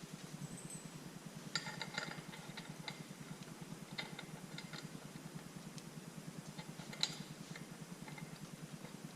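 Scattered metallic clinks and ticks of tools or small metal parts being handled, the sharpest about a second and a half in, around four seconds in and near seven seconds, over a steady low pulsing hum.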